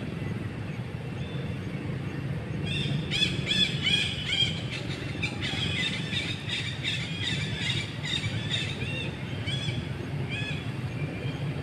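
Small birds chirping in quick runs of short, arched high notes, starting about three seconds in and coming and going, over a steady low rumble.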